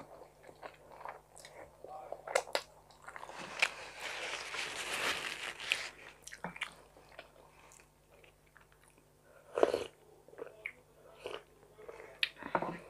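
Chewing a mouthful of spaghetti carbonara close to the microphone: wet smacks and clicks of the mouth, with a denser stretch of noise about four to six seconds in and a few sharper smacks later on.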